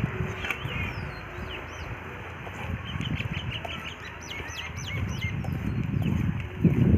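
Small birds chirping, a cluster of short, quick calls a few seconds in, over a low rumbling noise that swells sharply near the end.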